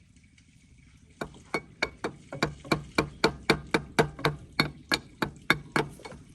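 Hammer blows in a fast, even run, about three to four strikes a second, starting a little over a second in, typical of hammering on a part during tractor repair work.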